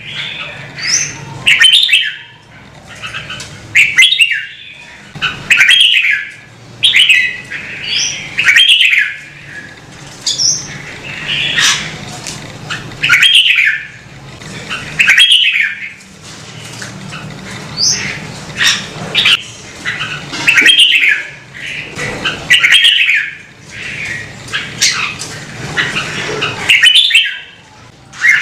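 Red-whiskered bulbul singing: loud, short, bending whistled phrases repeated every second or two.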